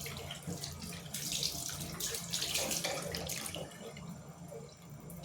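Water running from a bathroom tap into a sink, with uneven splashing as a face is rinsed; it dies down near the end.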